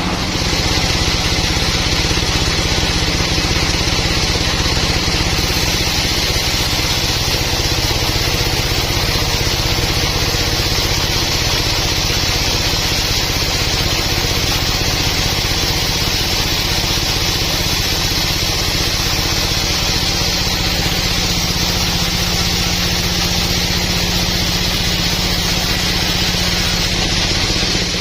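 Sawmill machinery engine running steadily, with a constant high-pitched hiss over its hum.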